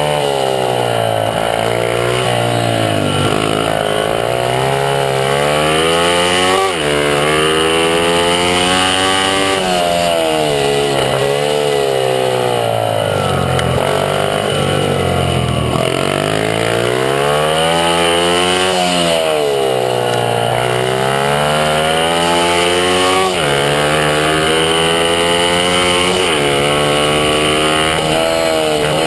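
Honda CRF50 mini bike's small single-cylinder four-stroke engine racing at high revs. The revs fall and climb again several times, with a few sudden jumps in pitch.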